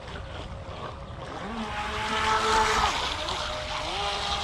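Carrera Profi RC Speedray hydroplane's small brushed electric motor whining as the boat is throttled up, over the rush of water. The whine climbs about one and a half seconds in, dips near three seconds and climbs again near the end, running on a 7.4-volt LiPo battery.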